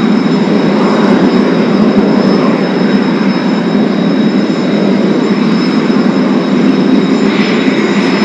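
Kawasaki T-4 jet trainers' turbofan engines running: a steady, loud rushing noise with constant high whining tones over it.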